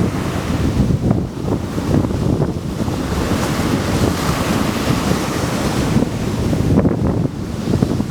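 Strong wind buffeting the microphone over the sound of surf breaking and washing on the shore, the wash swelling in the middle.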